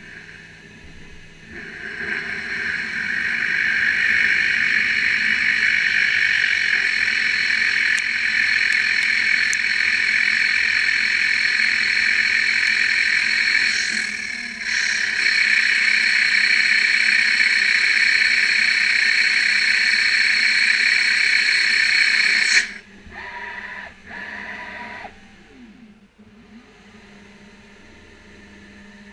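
CNC lathe turning stainless steel: a loud, steady, high-pitched cutting sound that starts about a second and a half in, breaks briefly about halfway, and stops suddenly a few seconds before the end, leaving a few short, quieter machine sounds.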